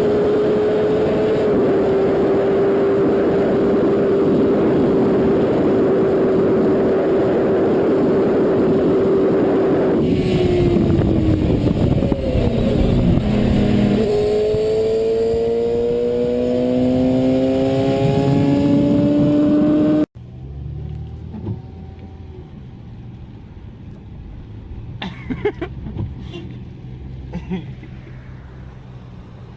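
Car engine running hard under loud road and wind noise. Its pitch drops, then climbs steadily as it accelerates. About twenty seconds in the sound cuts abruptly to a much quieter scene with a few sharp knocks.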